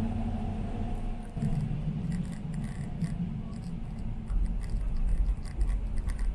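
Raindrops tapping irregularly on a PKP Intercity train carriage window, heard over the carriage's steady low rumble. The rumble changes about a second and a half in and gets deeper and heavier past the middle.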